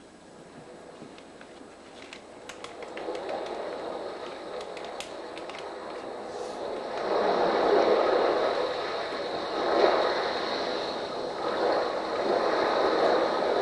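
A rushing noise that grows from faint to loud and then swells and ebbs in slow waves, with a few scattered clicks near the start.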